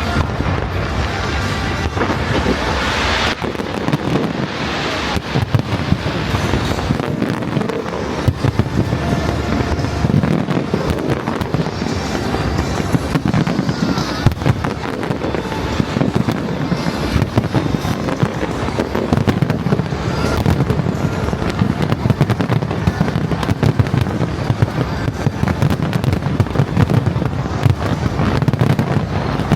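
Fireworks display: a continuous dense barrage of bangs and crackling from bursting shells, with no pause.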